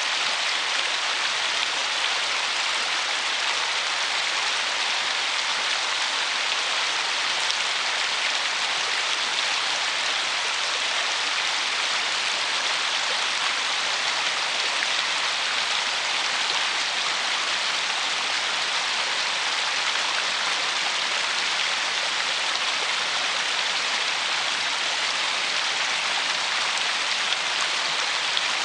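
River riffle: shallow water running fast over stones, a steady, even rush and babble of water with no breaks.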